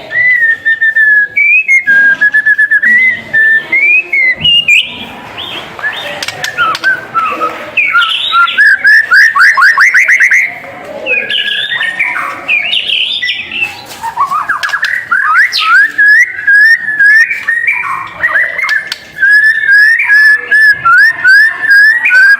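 White-rumped shama singing a long, varied song of clear whistled phrases. A run of quick rising notes comes in the middle and a string of fast repeated notes near the end.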